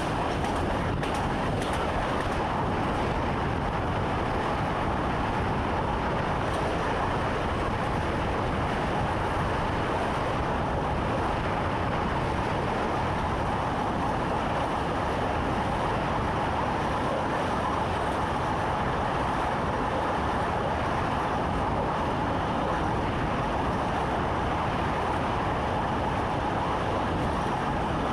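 Electric commuter train running at steady speed, heard from inside the driver's cab: a constant rolling and running noise with no let-up or change.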